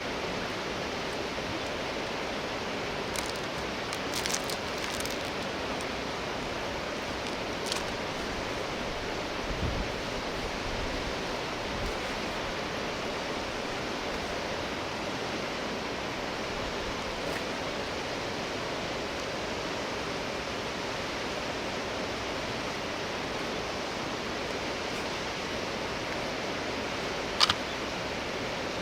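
Steady outdoor rushing noise, with a few faint scattered clicks and one sharper click near the end.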